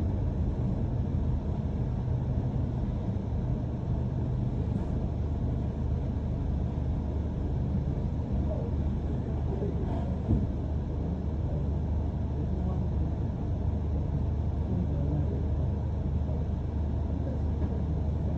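London bus in motion, heard from inside: a steady low engine and road rumble.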